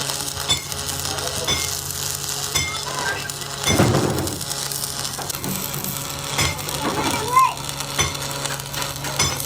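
Continuous crackling sizzle of electric arc welding on the truck's broken axle housing tube, with a steady low hum and scattered sharp clicks.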